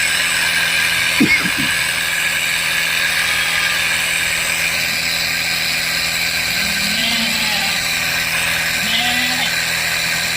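Motorized pressure sprayer running steadily while spraying goats, a constant machine drone with a steady hiss, with a short louder sound about a second in.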